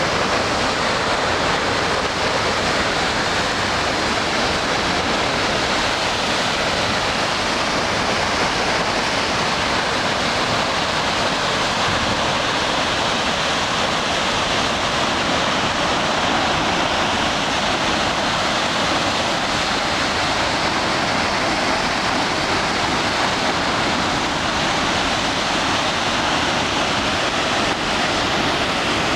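Otodome Falls, a powerful waterfall, pouring down: a loud, steady rush of falling water.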